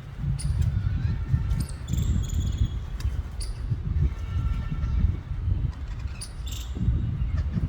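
Ringneck parrots giving a few short, shrill chirps and squawks at irregular moments, over a steady low rumble.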